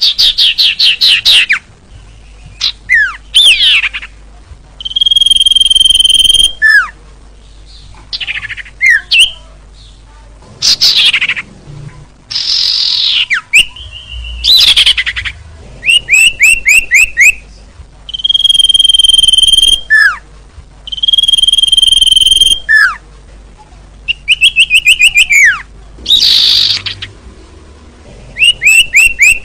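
Recorded songbird lure calls for sirtu, sirpu, cipo and cito, played loud. Phrases of rapid falling chirps and quick trills alternate with level whistled notes of about a second each, repeating with short gaps.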